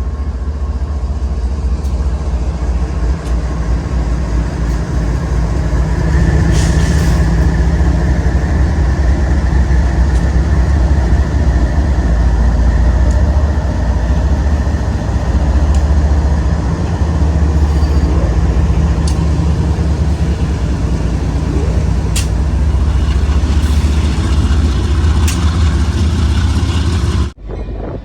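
Train rumbling past, a loud steady low rumble with scattered clicks, cutting off suddenly near the end.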